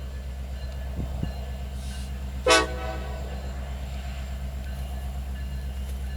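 A diesel locomotive's horn gives one short toot about two and a half seconds in, over the steady low rumble of the train. Two faint thumps come about a second in.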